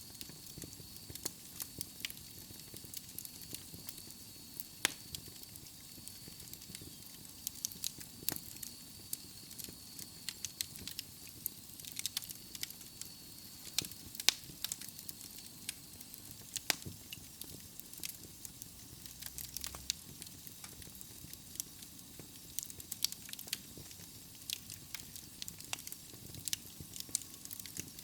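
Logs burning in a fireplace, crackling with irregular sharp pops over a steady soft hiss. A faint high whistle is there in the first half and fades out about halfway through.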